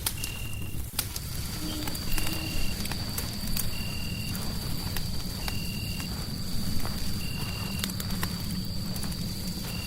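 Crackling fireplace: scattered pops and snaps over a low rumble. A short high chirp repeats about every second and a half, and a steady high whistle comes in about a second in.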